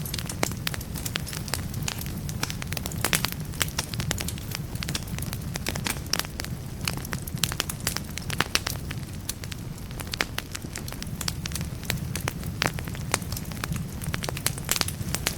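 Wood fire in a fireplace burning steadily: frequent sharp, irregular crackles and pops of burning logs over a soft low rumble.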